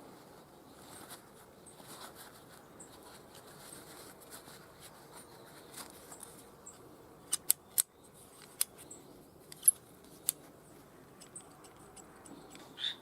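Scattered sharp clicks of small hard objects being handled, six or so in a cluster in the middle, over a low background hiss. Near the end a frog starts croaking in a rapid, even series.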